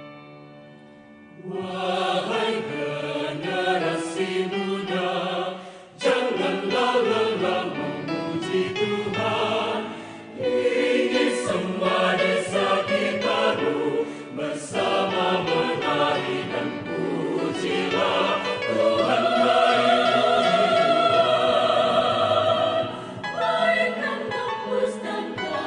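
Mixed adult choir singing in harmony, coming in about a second and a half in after a held chord dies away, with a brief breath pause around the tenth second.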